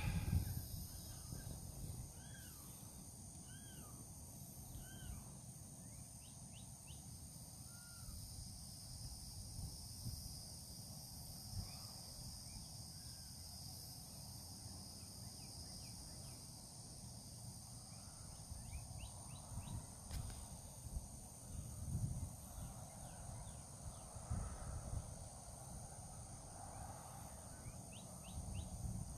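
Outdoor ambience: a steady high drone of insects throughout, with a few short bird calls in the first few seconds and low wind rumble on the microphone that swells now and then.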